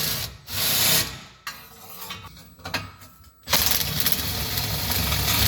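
Power tool running in bursts on the engine's bolts. There is a short burst about half a second in and a longer one from about three and a half seconds, with small metal clicks and clanks between them.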